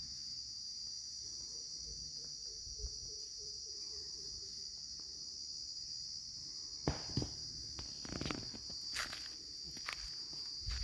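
Steady, high-pitched insect chorus. Several sharp crackles start about seven seconds in.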